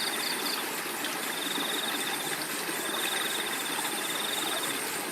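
Flowing river water making a steady rush, with crickets trilling over it in three long pulsed trains of chirps, each about a second and a half long.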